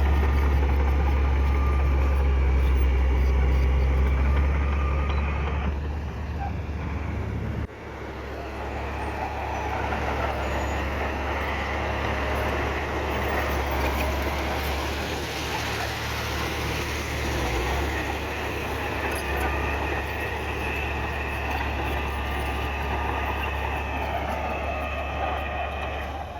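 Heavy diesel engine of earthmoving machinery running steadily with a deep low drone. About eight seconds in, the sound changes abruptly: the drone weakens and a noisier, rattling mechanical sound takes over.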